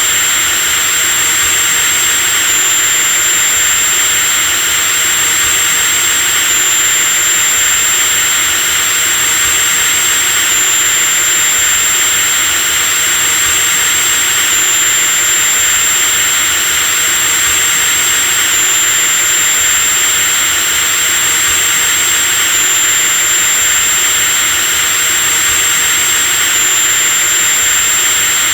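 Electric drill motor running steadily at constant speed: a high, even whine over a hissing rush of air and brushes, with a slight wobble in the whine every four seconds or so.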